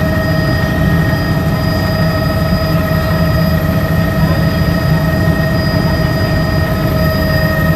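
Helicopter running: a steady, loud rumble of engine and rotor with several steady high-pitched whining tones over it.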